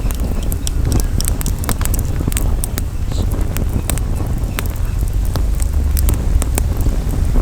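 Campfire crackling, with many sharp irregular pops and snaps over a steady low rumble of wind on the microphone.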